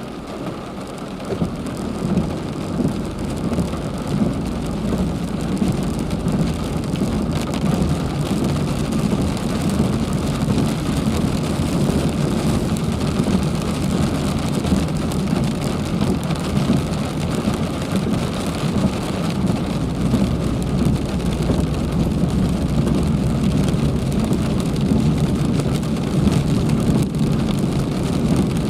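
Heavy rain falling steadily, a dense wash of drops that grows a little louder over the first couple of seconds and then holds.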